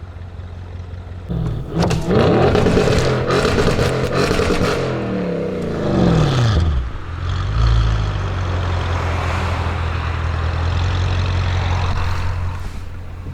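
Audi RS6 Avant C7's twin-turbo V8 through a Milltek exhaust, accelerating loudly about a second and a half in. Its note climbs and then falls away over several seconds, then settles into a steady low drone.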